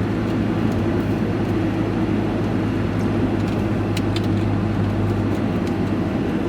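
Steady engine and road drone heard from inside a moving vehicle's cab, with a constant low hum and a few faint ticks partway through.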